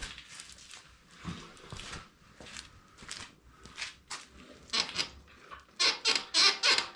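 Rear suspension of a Royal Enfield Himalayan squeaking as the bike is pushed down and let back up, a run of squeaks that grows louder and faster, about three a second, near the end. The squeak is still there after the dogbone links were greased; it comes from a dry swingarm pivot shaft.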